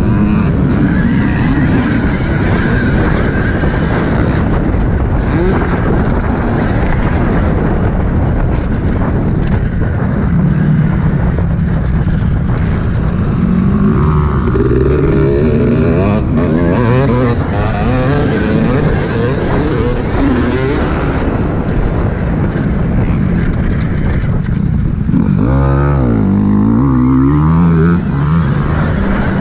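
Loud, steady rush of wind and track noise, with dirt-bike engines revving up and down, most clearly about halfway through and again near the end.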